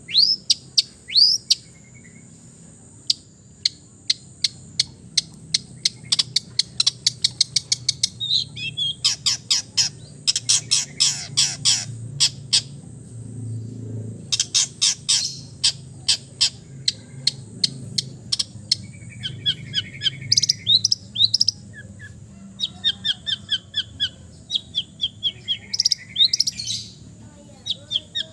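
Long-tailed shrike (cendet) singing a fast, varied song: rapid trains of sharp repeated notes broken by short sweeping whistles and buzzy phrases, with imitations of other birds' calls mixed in.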